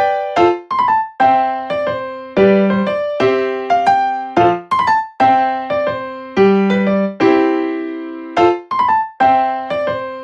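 Background music: an electric piano playing a light melody of struck notes that fade quickly.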